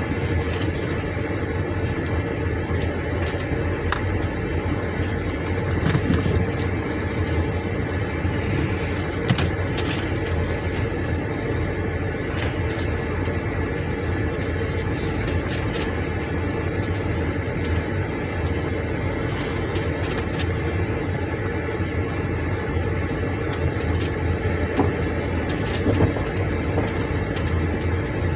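Car driving, with a steady engine hum and road noise throughout and a few light knocks.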